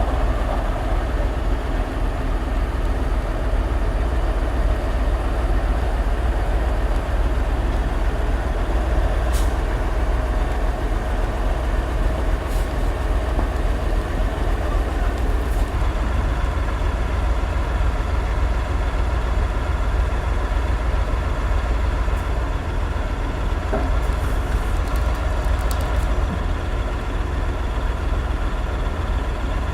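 Heavy ex-military terrain truck's diesel engine running steadily, a low rumble with a few faint ticks over it.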